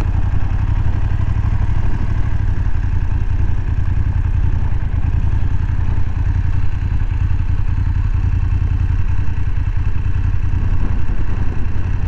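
BMW F850GS parallel-twin engine running steadily at low revs, an even low pulsing as the bike creeps along and idles.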